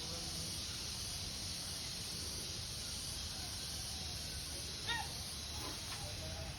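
Steady hissing background of an aviary, with a single short bird call about five seconds in and a fainter call just after.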